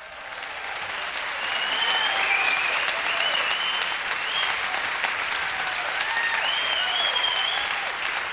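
Concert-hall audience applauding, swelling up over the first couple of seconds and then holding steady, with a few high, wavering calls over the clapping.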